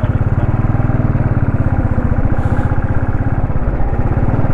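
Royal Enfield Thunderbird 350X single-cylinder motorcycle engine running at low, steady revs, with a rapid, even pulsing beat.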